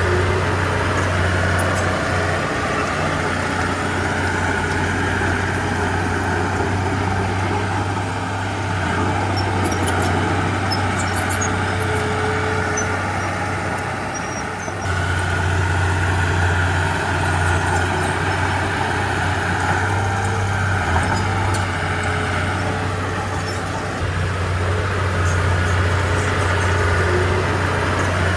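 Heavy diesel engine of earthmoving machinery running under changing load. Its low note swells and sags, drops away for a while, surges back abruptly about halfway through, then dips and rises again near the end.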